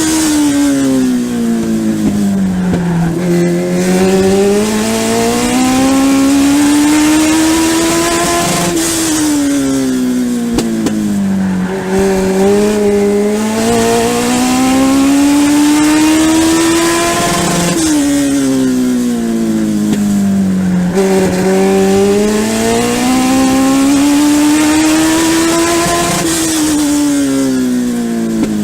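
In-car sound of a Legend race car's Yamaha four-cylinder motorcycle engine at racing speed on a short oval. The engine note drops as the car lifts for each turn and climbs again under acceleration down the straight, three times over.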